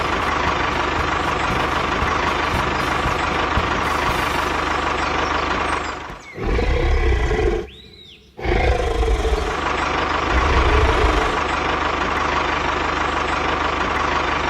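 Steady engine-like running noise, as of a vehicle's motor at work. It drops out briefly twice, about six and eight seconds in, and then carries on.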